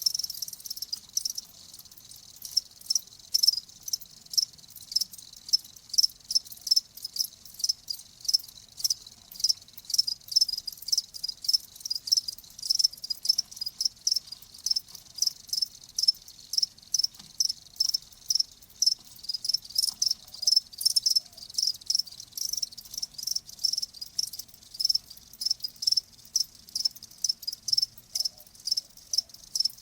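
Cricket chirping: short, high chirps repeated evenly, about three a second.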